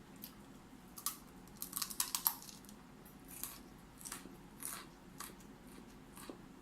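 Raw broccoli being bitten and chewed with crisp crunches: a quick cluster of crunches about a second in, then slower single crunches every half second or so.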